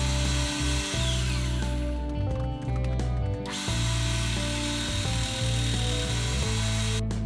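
Power grinder working metal in two passes, stopping about two seconds in and starting again about a second and a half later, over background music with a steady bass line. Just before the end the grinding cuts off and only the music is left.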